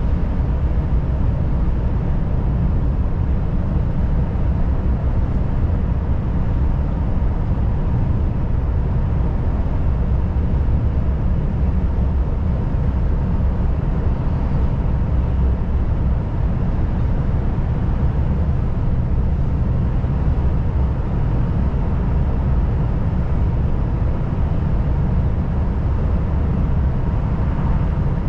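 Volvo FH540 truck under way, its straight-six diesel and road noise making a steady low rumble.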